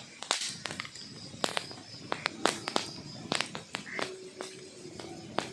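Wood fire burning in a fireplace, crackling with sharp, irregular pops of the logs.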